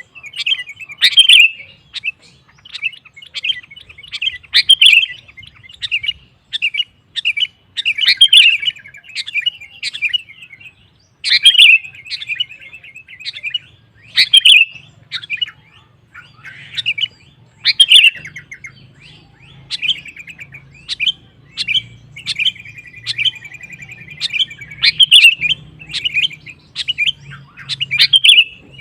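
Sooty-headed bulbul singing at length in short, loud chirping phrases every second or two, with a longer rattling trill about three-quarters of the way through.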